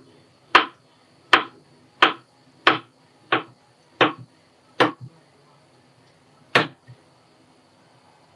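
A run of sharp knocks: seven strikes about two-thirds of a second apart, then one more after a pause, some with a faint second tap just after.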